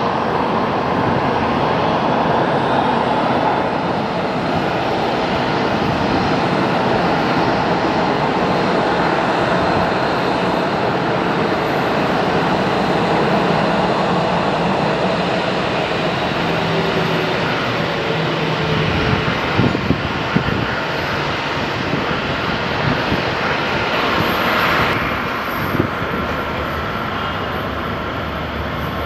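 Airliner engines running, a steady loud rush of noise that thins slightly near the end.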